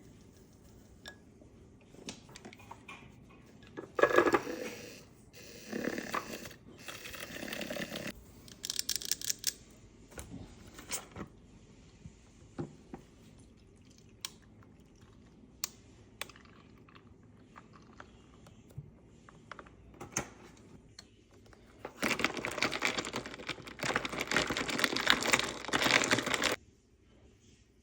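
Kitchen handling sounds of making an iced coffee drink: scattered clicks and light knocks of containers and utensils. Several louder rustling or pouring passages stand out, the longest lasting about four seconds near the end.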